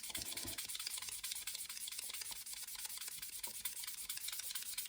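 Melamine foam pad rubbed back and forth over a tobacco pipe stem in fast, even scrubbing strokes, lifting dirt and oxidation off the stem.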